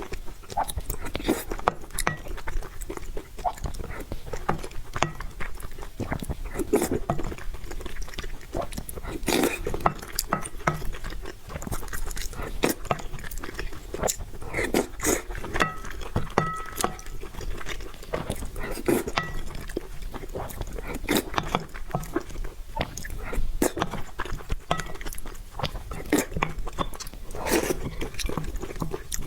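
Close-miked eating: steady chewing, smacking and biting, with many short wet clicks of the mouth and food, going on without a break.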